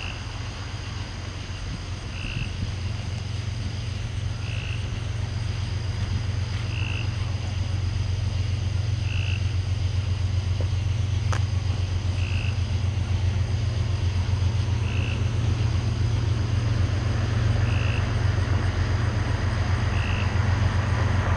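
Deep, pulsing rumble of an approaching freight train's GE diesel locomotives, growing steadily louder. Over it a frog gives a short call about every two seconds, and insects drone steadily.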